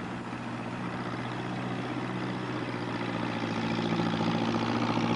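Engine of a log-lifting machine running steadily, growing louder as the machine approaches.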